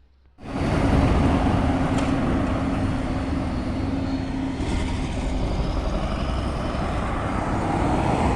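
Vehicle on the move: steady engine and road noise that cuts in abruptly about half a second in, with a steady hum for the first few seconds.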